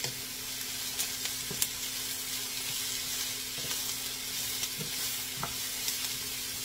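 Diced vegetables sizzling in a hot skillet as they are stirred with a wooden spatula. A steady frying hiss runs throughout, with a few light clicks of the spatula against the pan.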